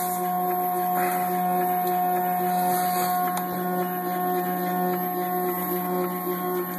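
Stepper motor of a DIY CNC Z axis driving the slide along its rail: a steady, even hum of several fixed tones.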